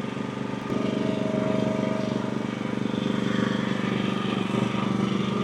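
Frontier OS35 hydraulic sawmill's engine running steadily. About two-thirds of a second in, it gets louder as the hydraulics take load, with a thin whine for about a second and a half.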